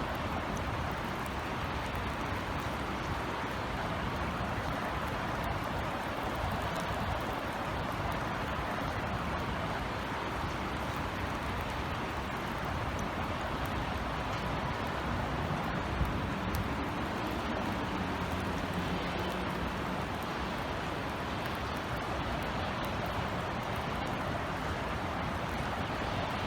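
Steady drizzle with a constant low hum of city traffic. A low drone swells briefly about two-thirds of the way through.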